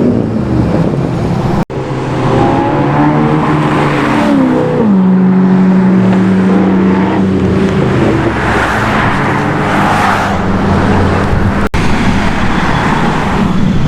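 Loud car engines accelerating, their pitch climbing and then holding steady, with the sound dropping out abruptly twice.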